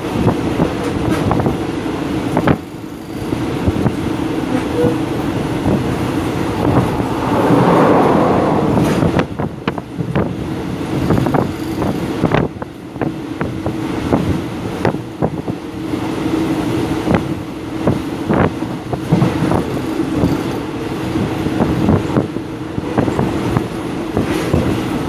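Express passenger train coach running, heard from inside by an open window: a steady rumble and rattle with a held hum and irregular clacks of the wheels over rail joints, louder for a couple of seconds about eight seconds in.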